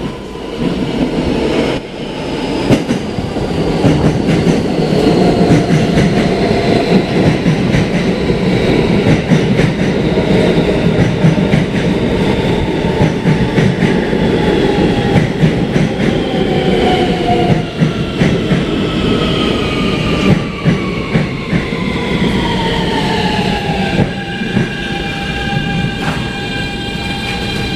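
Subway train running between stations, heard from inside the car: wheels clattering over the rail joints under a steady rumble. From about halfway through, the traction motors' whine falls in pitch as the train slows, then holds steady near the end.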